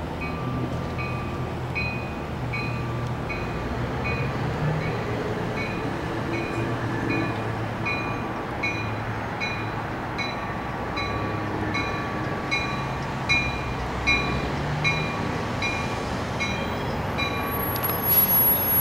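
Metra Electric Highliner electric train pulling into a station over a low motor hum, its bell ringing steadily about one and a half strokes a second until it stops near the end. A brief high squeal follows, as the train comes to a stop.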